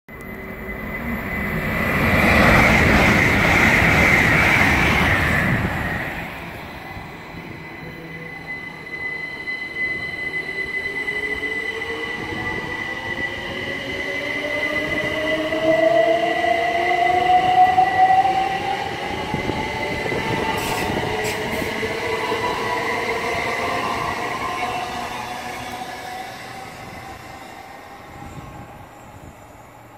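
Great Western Railway Class 800 train passing at speed, a loud rush of wheels and air for a few seconds. Then a pair of Class 387 electric multiple units pulls away, the traction motors whining and rising in pitch as they accelerate, before fading out near the end.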